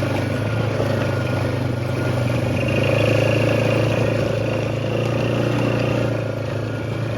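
A vehicle engine running at a steady speed, with wind noise on the microphone.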